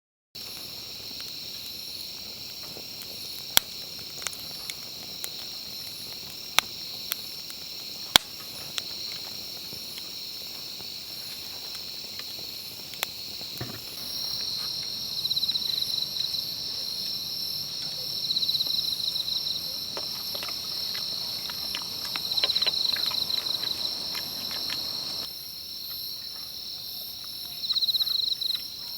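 Chorus of crickets and other insects trilling steadily, with louder pulsing trills several times in the second half. Scattered sharp clicks in the first ten seconds.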